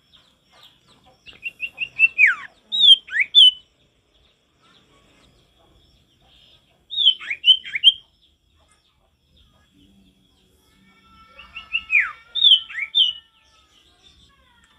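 Common iora (sirtu) singing: three phrases, each a run of quick repeated notes followed by sharp downward-sliding whistles, with pauses of a few seconds between them.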